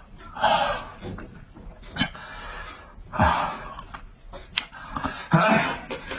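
Close-up mouth sounds of a person eating: three noisy bursts of breath about two and a half seconds apart, with sharp mouth smacks between them.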